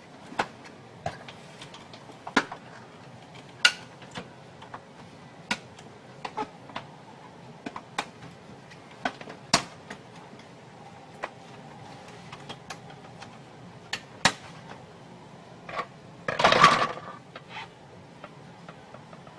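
Scattered clicks and knocks of plastic printer parts being handled, with one louder scraping rattle about three-quarters of the way through.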